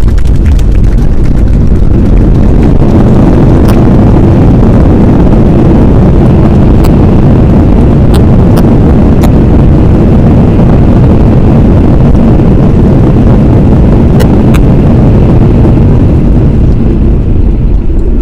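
Loud, steady jet-engine rush from a Boeing 737-800's CFM56 turbofans close by, heaviest in the low end and overloading the microphone, mixed with wind buffeting on the mic. A few faint clicks sit on top.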